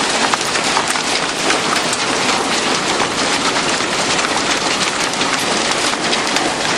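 Heavy hail, nickel-sized stones, pelting down: a dense, steady clatter of countless small impacts.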